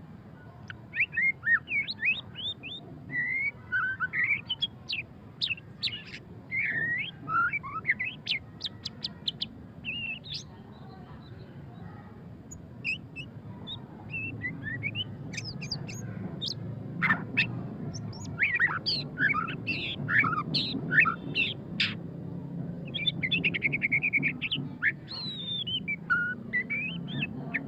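White-rumped shama singing a varied song of loud whistles, sweeping notes and fast chattering trills, broken by a pause of a few seconds near the middle.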